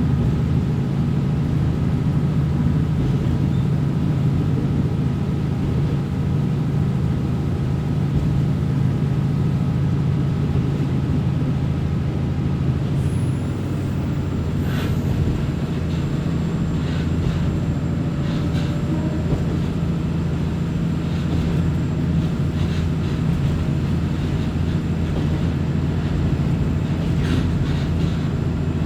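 Diesel railcar running, heard from inside the passenger cabin: a steady low engine and running drone. Short clicks come about halfway through and then now and again to the end.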